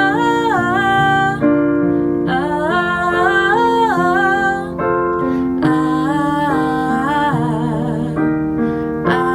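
Woman singing a song's melody on an open 'ah' vowel instead of the words, in long held notes with slides between pitches, over keyboard accompaniment. It is a vocal exercise: the 'ah' vowel keeps the tone from turning nasal.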